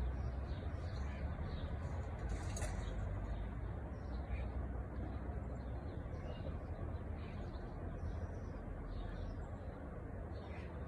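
Small birds chirping in short, repeated high notes over a steady rushing background rumble.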